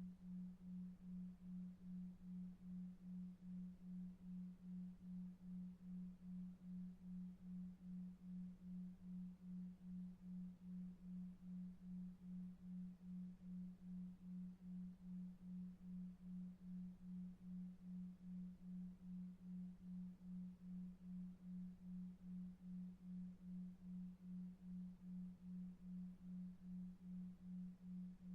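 Low pure sine tone pulsing about two and a half times a second, a 2.5 Hz delta-wave sleep beat, over faint brown noise.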